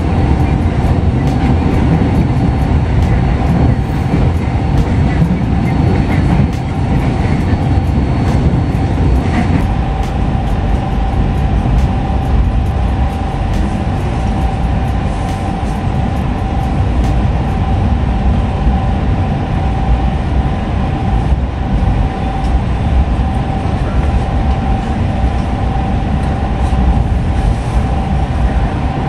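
Jayabaya passenger train running, heard from inside the coach: a steady low rumble with a thin steady hum and many short sharp clicks of the wheels on the track.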